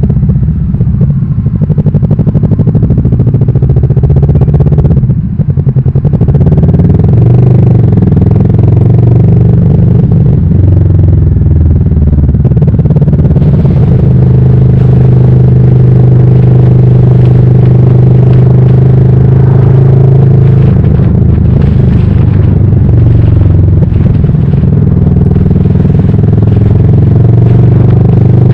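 Kawasaki Vulcan S's 649 cc parallel-twin engine running on the move. The engine note shifts in pitch through the first few seconds, with a brief dip about five seconds in, then holds steady for several seconds before changing again.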